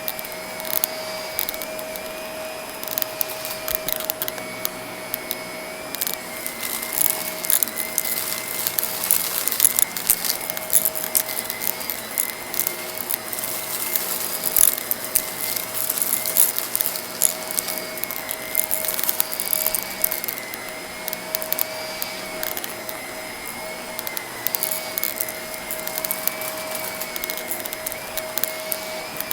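Vacuum cleaner running with a steady motor whine that wavers slightly, while small debris crackles and clicks up into it in quick irregular bursts.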